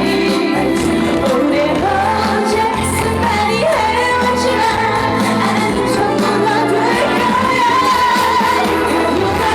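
Female singer singing a dance trot song live over an accompaniment track with a steady bass beat, holding a long note with vibrato in the second half.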